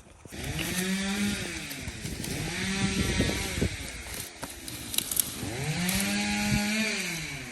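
Two-stroke chainsaw cutting firewood, revved up, held at speed and let back down three times.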